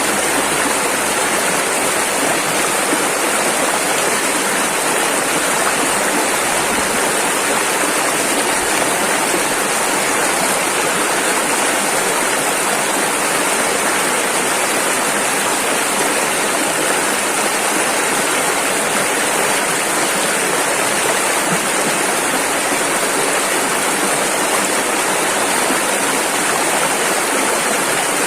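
Rushing river water: a steady, dense flow with no breaks or changes.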